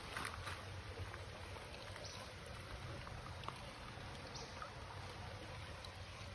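Faint, steady running water with a few small, light splashes.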